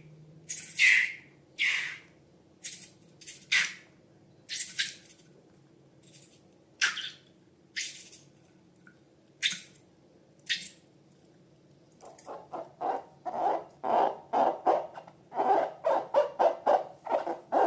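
Slime being handled: short, separate wet squishes for about twelve seconds, then a quicker run of squelching pops.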